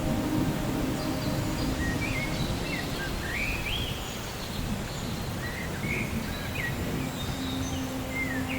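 Rain-and-thunder ambience: a steady low rumble and hiss, with a low hum under it. Birds chirp short calls that rise and fall in pitch, many times from about two seconds in.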